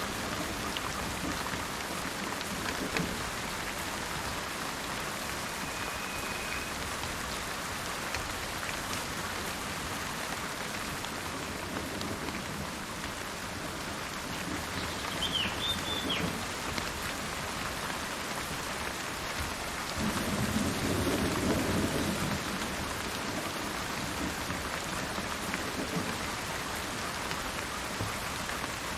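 Steady rain falling in a forest, with thunder rumbling low just after the start and swelling again about two-thirds of the way through. A short chirp from a bird cuts through the rain about halfway.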